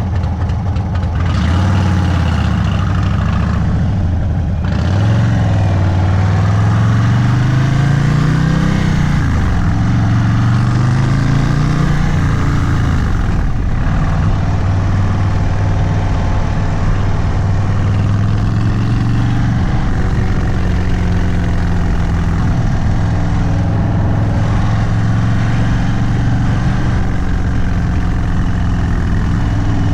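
Indian Sport Chief's Thunderstroke 116 V-twin running through a stage 2 Sawicki Speed exhaust: the engine pitch rises as it accelerates a few seconds in, drops back, then holds steady at a cruise.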